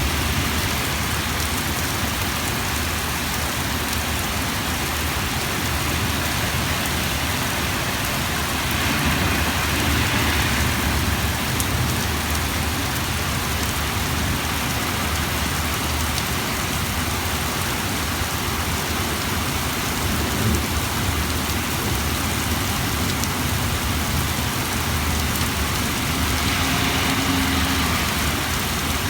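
Heavy rain pouring steadily onto surfaces, a dense even hiss that swells twice, about ten seconds in and near the end.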